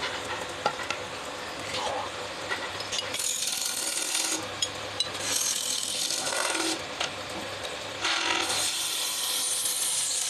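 A tool scraping and cutting into wood, a rasping noise that swells into louder spells of a second or two, three times, with a few light clicks.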